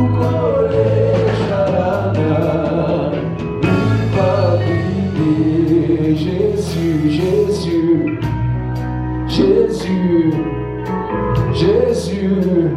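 Live gospel praise music from a church band: a sung melody over a steady bass line, with drum and cymbal strokes keeping the beat.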